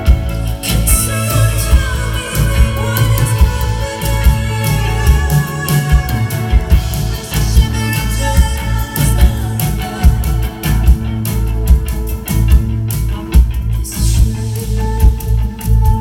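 Live band music, an instrumental passage with guitar, a heavy bass and drums keeping a steady beat.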